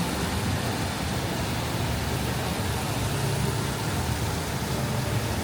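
Steady city traffic noise: a continuous low rumble of car engines and road traffic with street hubbub.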